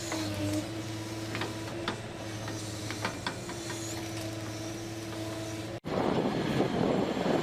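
Heavy machine's engine running steadily, with scattered sharp cracks and clicks. About six seconds in, the sound cuts abruptly to a louder, rougher engine noise.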